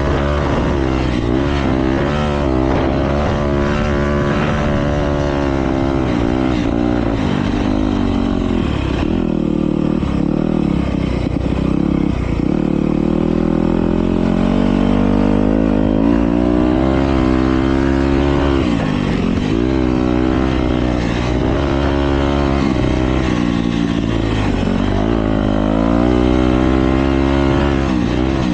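Motocross bikes racing: several engines revving at once, their pitch rising and falling over and over as the riders open and close the throttle.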